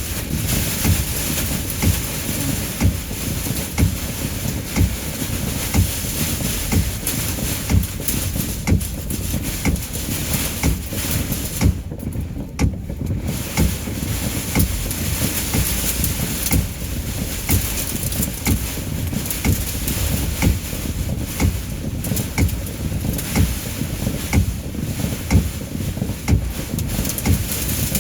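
Heavy rain and hail beating on a car in a storm driven by strong wind: a dense, steady roar with many sharp hits scattered through it. The high hiss drops away for about a second near the middle.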